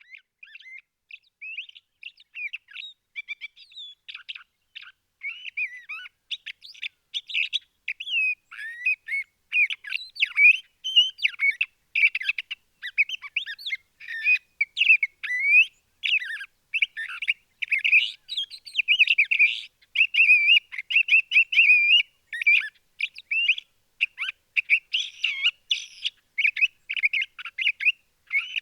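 Nestling birds cheeping in a rapid, overlapping chorus of short high chirps while being fed, sparse at first and much busier after a few seconds.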